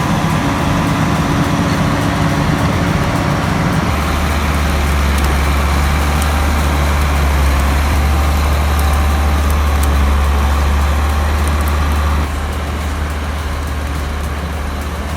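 Heavy diesel engines of an excavator and a loaded truck running hard under load, a steady deep drone that strengthens about four seconds in and drops back near the end.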